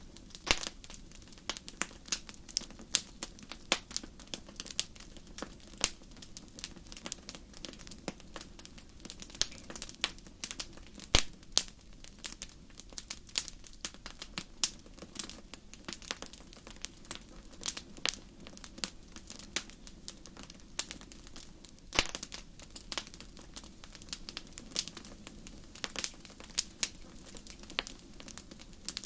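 Fire crackling in a fireplace: a steady run of irregular sharp pops and snaps over a low hiss, with the loudest pops about eleven and twenty-two seconds in.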